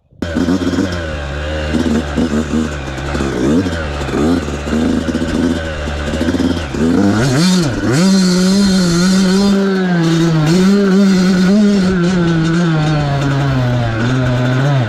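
Yamaha YZ85 two-stroke dirt bike engine running with wavering revs, then revving up sharply about seven seconds in and holding at high revs. The held-open throttle fits a whiskey throttle as the rider loses control.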